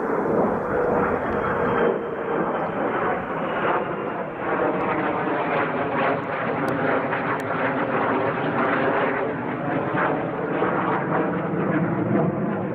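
Fighter jet engine noise, loud and steady, a rough crackling rush with several humming engine tones running through it. It starts abruptly at the outset.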